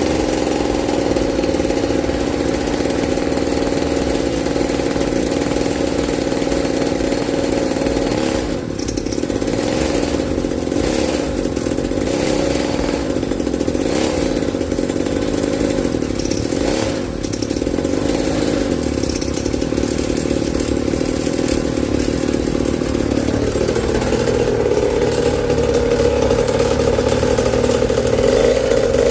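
Small petrol engine of a stand-up gas scooter running at fairly steady revs, with small rises and falls in pitch and a couple of brief dips in revs.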